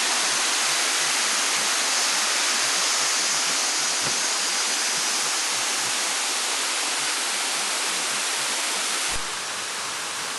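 Steady rush of falling water from a waterfall. About nine seconds in, it drops suddenly to a quieter, thinner hiss.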